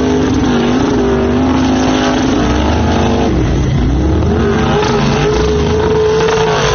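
Pickup truck engine running under load, its pitch holding steady, dropping and climbing again about halfway through, then holding once more.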